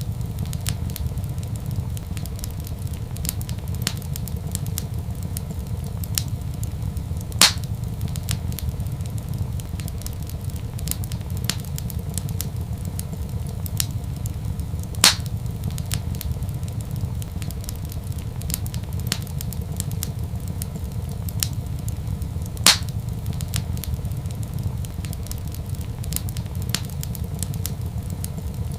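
Wood fire in a fireplace crackling: frequent small clicks and three louder pops, evenly spaced, over a steady low rumble.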